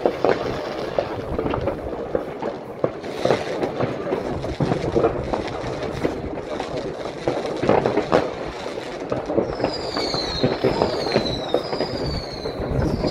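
Many fireworks going off at once across a town: a continuous din of bangs and crackling firecrackers. From about ten seconds in, a run of falling whistles from whistling fireworks rises over the bangs.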